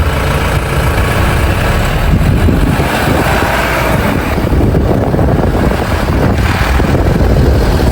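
Steady, loud, low rumble of a moving vehicle, engine and road noise running without a break.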